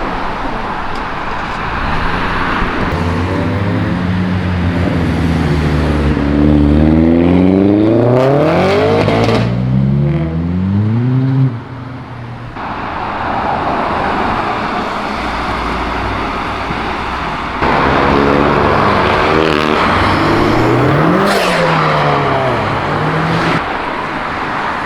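Cars driving past on the road, their engines accelerating with the pitch rising and falling. One loud pass lasts until about halfway and cuts off suddenly. A second pass comes near the end.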